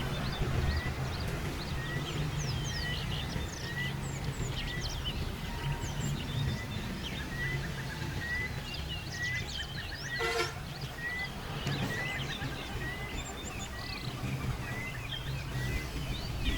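Small birds chirping outdoors, with one bird repeating a short note about twice a second, over a steady low hum. One sharp click comes about ten seconds in.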